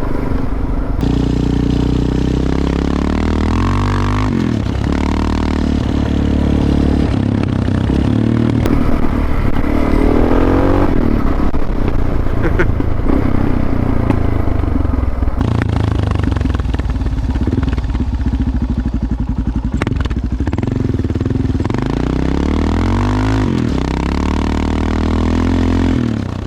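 Suzuki DR650's single-cylinder four-stroke engine running under way on a dirt road, its pitch rising and dropping several times as the rider accelerates and shifts gear.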